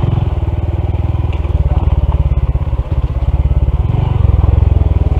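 Honda CT125 motorcycle's small single-cylinder engine running, with a fast, even beat of firing pulses on a steep trail. It grows a little louder about four seconds in.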